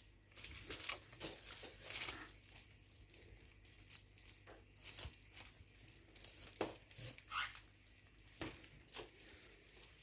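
Irregular rustling, crinkling and scratching of a cockatiel moving about its cage, with a few sharper snaps, the loudest about four and five seconds in.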